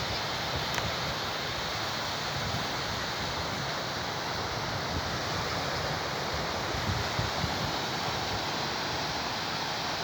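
Sea surf washing steadily on the shore, with wind buffeting the microphone in gusts.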